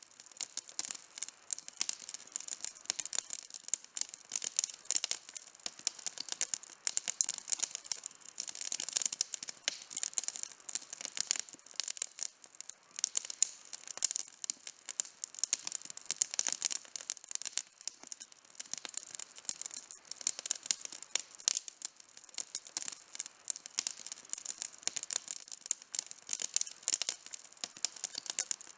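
Wood campfire burning with dense, irregular crackling and sharp pops, no low rumble.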